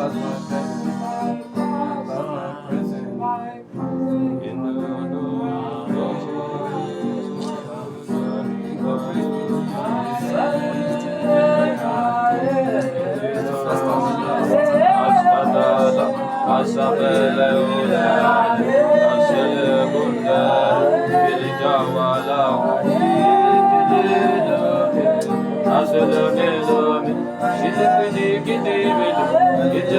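Worship music: held keyboard chords with guitar. From about ten seconds in, a voice sings a wordless, freely bending melody over them, and the music grows louder.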